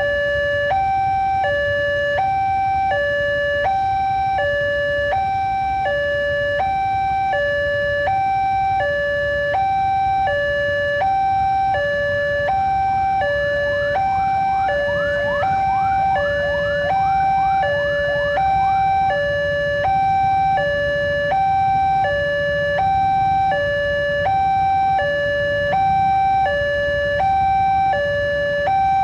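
Railway level-crossing warning alarm sounding its steady two-tone electronic ding-dong, high and low notes alternating about once a second, meaning a train is approaching. A low rumble runs underneath, and a quick series of rising chirps comes in briefly around the middle.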